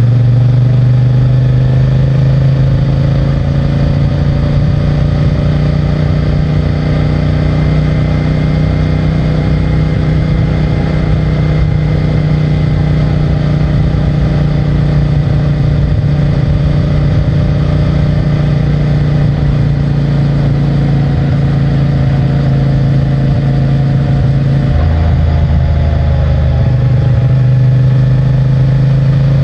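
CFMOTO 450MT's 449 cc parallel-twin engine running steadily under way on the stock exhaust, its note drifting slowly up and down with road speed, with a brief change in the engine note about 25 seconds in.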